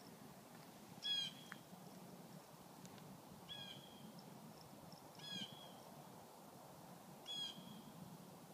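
A bird calling: a short, high call repeated four times, about every two seconds, over faint outdoor background noise.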